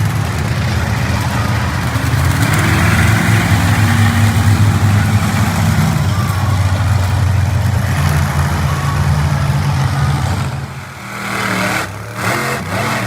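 Monster truck engine running loud, a little louder three to five seconds in, then dropping off suddenly near the end.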